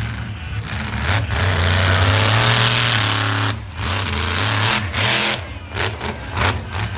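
Monster truck engine revving hard. It climbs to full throttle about two seconds in, cuts out briefly about three and a half seconds in, then comes back in short, choppy bursts of throttle.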